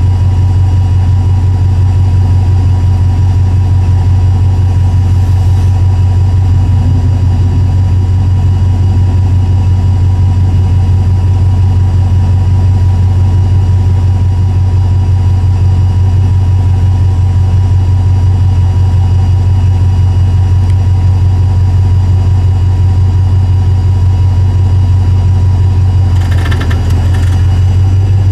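Off-road 4x4's engine idling, a loud, deep, steady drone heard from inside the vehicle's cab.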